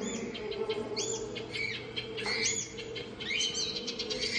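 Birds chirping in a rainforest exhibit: many short, high, arched whistled calls, overlapping and repeating, over a steady low hum.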